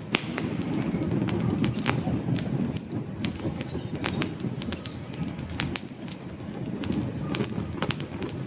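Wood campfire crackling, with frequent sharp snaps and pops from the burning logs over a low, steady rumble of flames.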